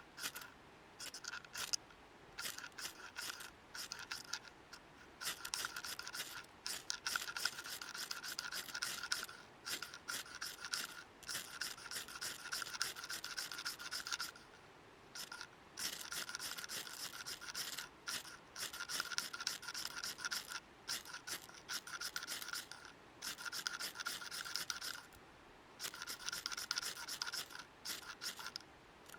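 Rapid scraping strokes in runs of a few seconds, with short pauses between the runs.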